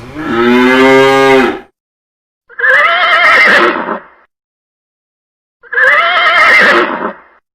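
A cow moos once, a long low call. Then a horse whinnies twice, two matching calls with a quavering pitch.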